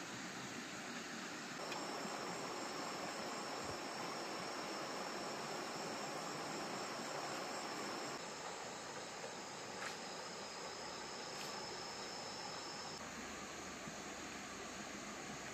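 Crickets trilling as a steady high-pitched tone over a dense hiss; the trill stops about thirteen seconds in.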